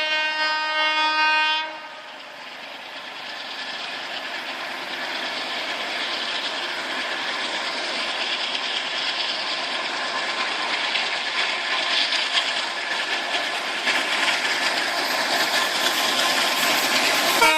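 An Indian Railways WAP-7 electric locomotive's horn sounds one steady held note that stops about two seconds in. The train then runs past with a steady rushing and wheel clatter on the rails, growing louder toward the end.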